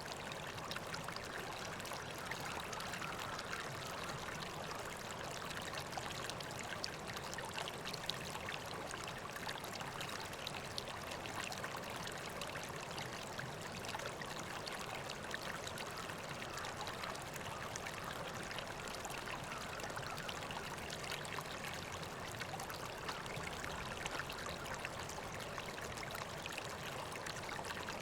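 River water flowing steadily, an even babbling rush.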